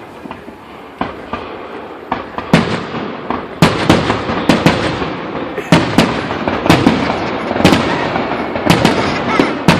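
Aerial fireworks exploding: a string of sharp bangs, sparse at first and then coming thick and fast from about two and a half seconds in, with a rumble and crackle between them.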